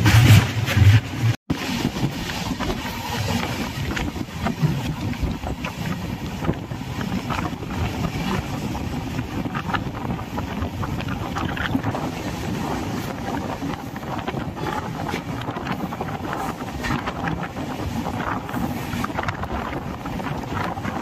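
Passenger train running along the track, heard from on board: a steady rumble with wind buffeting the microphone, and a brief louder low rumble in the first second.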